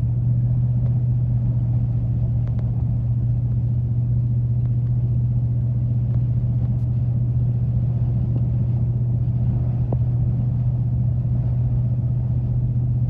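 Steady low drone of a 4x4 driving on a snow-covered highway, heard from inside the cabin: engine hum and tyre noise at an even speed.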